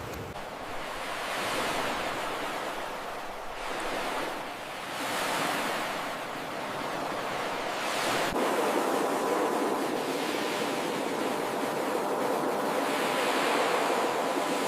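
Ocean surf: waves breaking and washing ashore, the rush of water swelling and fading every few seconds.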